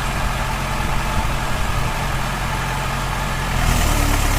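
A heavy diesel engine running steadily, growing a little louder about three and a half seconds in.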